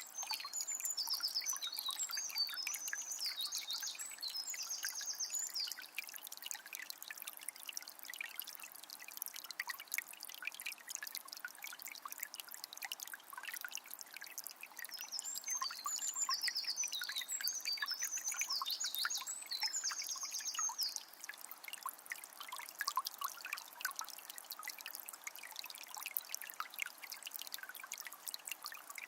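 Water of a small spring trickling and splashing steadily. A songbird sings a phrase of several seconds near the start and again about halfway through.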